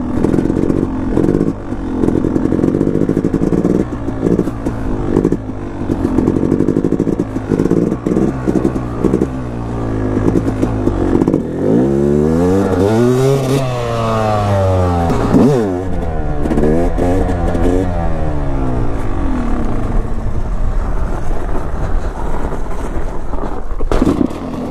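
Dirt bike engine revving hard with the throttle chopped and opened again and again, as when riding wheelies. About halfway through the pitch sweeps up and then back down.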